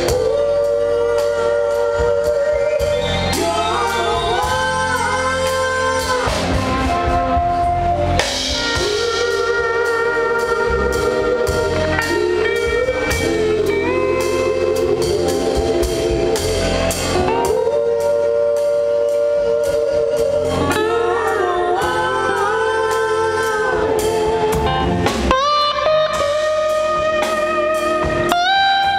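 Live band playing a jam: long sustained electric guitar lead notes with bends and vibrato over bass and drums.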